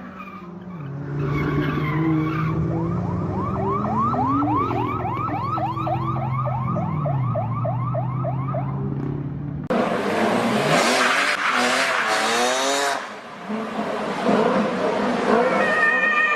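A car engine drones steadily while an electronic warning tone sweeps rapidly upward over and over, about four times a second, for roughly six seconds. About two-thirds of the way in the sound cuts abruptly to loud rushing road noise with wavering squeals.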